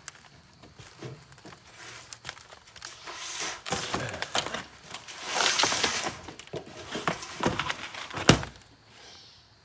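Rustling, crinkling and clattering of materials being handled, with one loud knock about eight seconds in.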